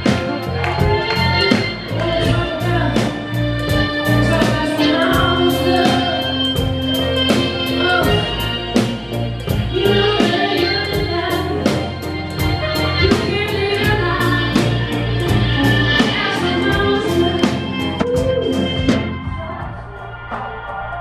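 Live band playing a song with a woman singing lead and other voices joining in, over held chords and a steady beat of drum hits. Near the end the drums drop out and the music gets quieter.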